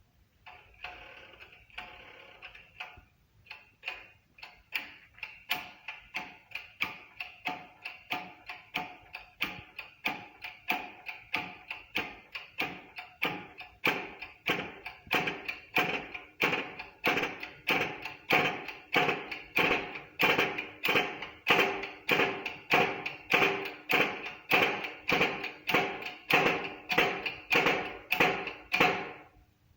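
A hammer striking metal over and over, about one and a half to two blows a second, each blow ringing. The blows grow louder as the hammering goes on and stop shortly before the end.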